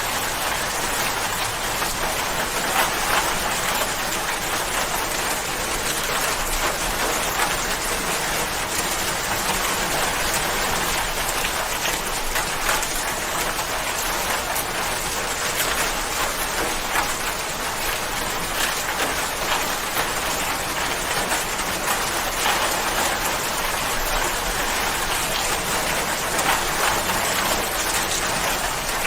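Steady rain falling, a dense even patter of drops with fine scattered individual drop ticks.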